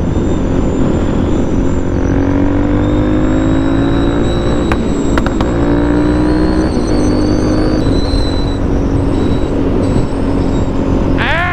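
Motorcycle engine running under way over a steady wind rush. Its pitch climbs slowly, drops about halfway through and climbs again, as with a gear change; two short clicks come near the middle.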